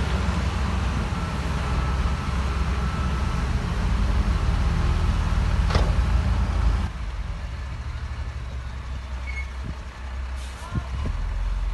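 Heavy diesel construction machinery engine running steadily under load, with one sharp click about six seconds in. The noise drops abruptly about seven seconds in to a quieter, steady engine drone.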